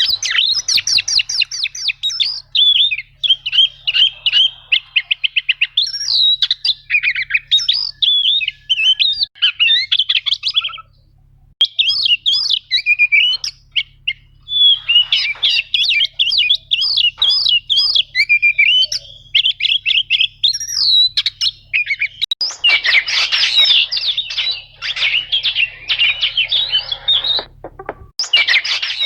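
Oriental magpie-robin (kacer) singing a long, fast, varied song of high whistled notes and rapid rolling trills, with short breaks about 11 and 22 seconds in. A faint steady low hum runs underneath.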